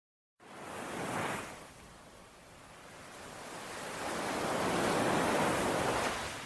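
Ocean waves washing on a shore: after a moment of dead silence at the start, a small wave surges about a second in, then a larger wave builds, peaks near five seconds and eases off.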